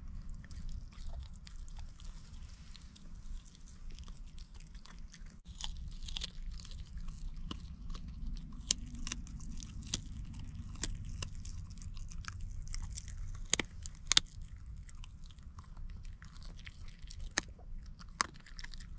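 Close-up chewing and biting of food, with scattered crunches and small sharp clicks, over a low steady rumble.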